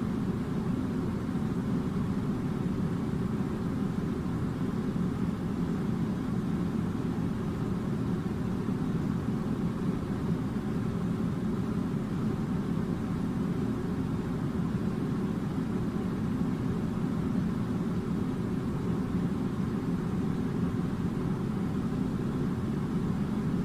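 Steady low hum and rush of an air conditioner, unchanging throughout.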